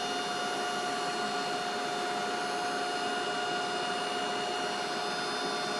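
Steady machinery hum with several constant whining tones over an even hiss: an idle CNC grinder's electrical and support systems running under power.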